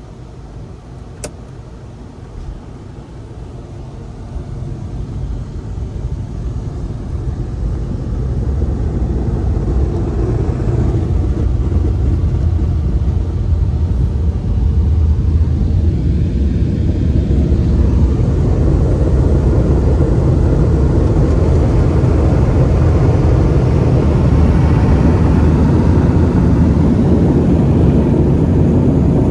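Automatic car wash drying blowers spinning up: a rising rush of air that swells over about ten seconds and then holds at a steady roar.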